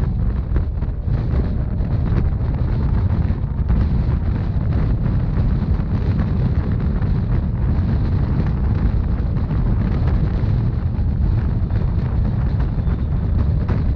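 Wind buffeting the microphone over the steady low rumble of a narrow-gauge Rhaetian Railway train running along the track.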